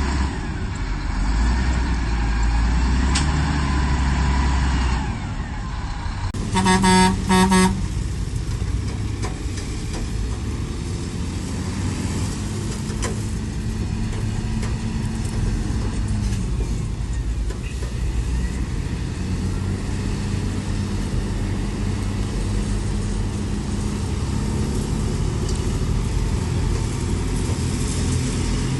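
Diesel engines of heavy earthmoving machinery running steadily, with a vehicle horn sounding a few quick short toots about six to seven seconds in.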